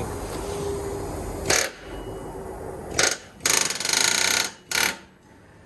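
A pneumatic air tool in the shop fires in short bursts, four of them, the longest about a second. Before them there is a steady background noise.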